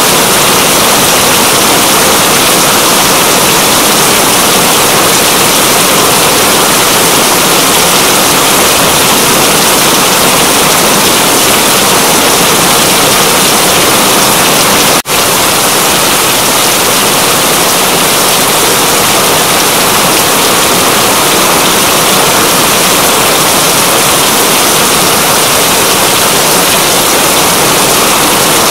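Steady heavy rain: a dense, even hiss with a momentary dip about halfway through.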